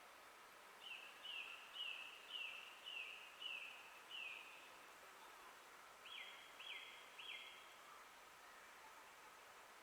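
A songbird singing a series of about seven falling notes, roughly two a second, then after a short pause three sharper notes. A faint steady hiss lies underneath.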